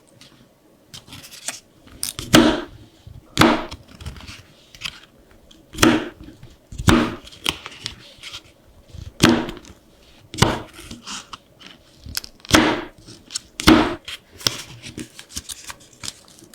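Sheets of paper being handled and creased for a folded blizzard book: a series of short, crisp rustles, about one every second.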